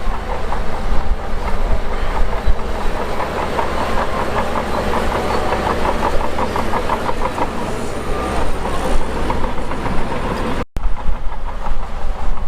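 Shantui DH17 bulldozer running under load, its diesel engine rumbling steadily while the steel tracks clatter in a quick, even rhythm that is strongest in the middle. The sound drops out for an instant near the end.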